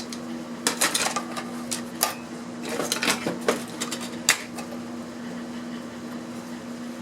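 Clicks and light clatter of small plastic parts from a disassembled remote being handled and set down, a quick run of sharp knocks in the first four seconds. After that only a steady low hum remains.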